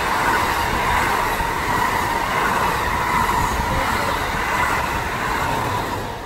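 NJ Transit commuter train, a Bombardier ALP-46 electric locomotive with double-deck coaches, passing at speed: a loud, steady rush of wheels on rail with a steady high whine above it. The sound falls away near the end as the last car clears.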